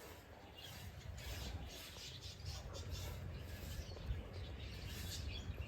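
Small birds chirping, many short high chirps in quick scattered succession, over a low steady rumble.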